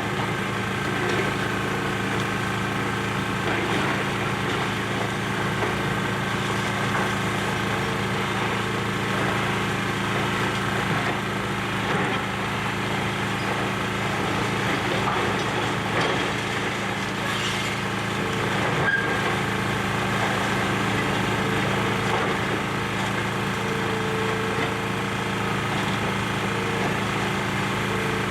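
Excavator diesel engine running steadily under load, with occasional cracks and crunches of building debris being broken up.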